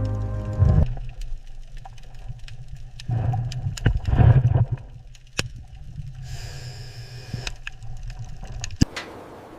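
Underwater ambience on a dive: low rumbling with scattered sharp clicks and cracks, and a short hiss of bubbles a few seconds before the end. Background music stops about a second in.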